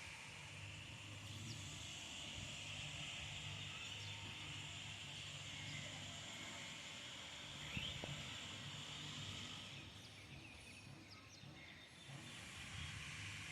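Faint outdoor garden ambience: a steady hiss with a low hum underneath and a few brief bird chirps, one a quick upward chirp about eight seconds in.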